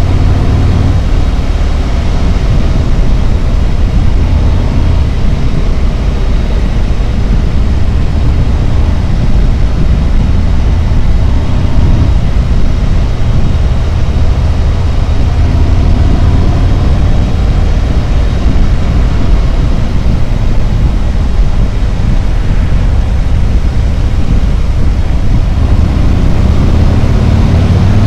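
Harley-Davidson Road Glide's V-twin engine running steadily on the move, with a steady rush of wind and road noise.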